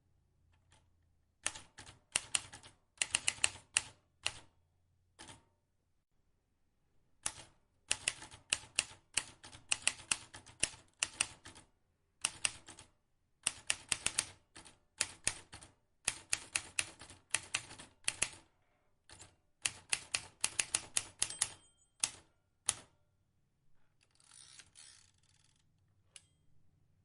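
Vintage manual typewriter being typed on: runs of quick, sharp key clicks broken by short pauses. Near the end comes a brief scraping noise, then one last click.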